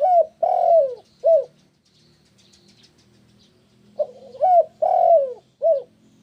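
Spotted dove (tekukur) cooing in two phrases, one at the start and one about four seconds in. Each phrase is a short note, a longer falling note and a short closing note. Small birds chirp faintly in the background.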